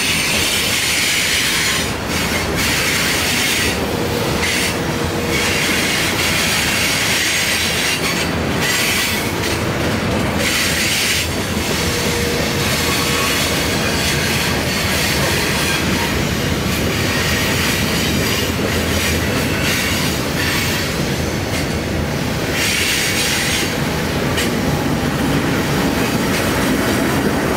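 Freight train of boxcars rolling past on a curve: steady wheel-and-rail noise with wheel flanges squealing and grinding in patches, and wheels clicking over rail joints. Near the end a diesel locomotive at the rear of the train passes, its engine adding a low hum.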